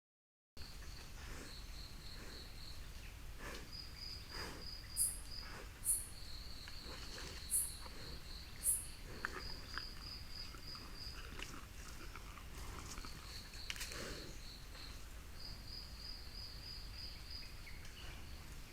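Forest ambience recorded by a camera trap: an insect, cricket-like, chirps in rapid trains of pulses at one high pitch. Four short, sharp, very high calls stand out between about five and nine seconds in, over faint rustles and clicks.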